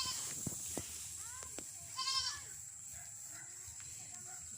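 A goat bleating: one short quavering bleat about two seconds in, with the tail of another right at the start. A steady high-pitched whine runs underneath.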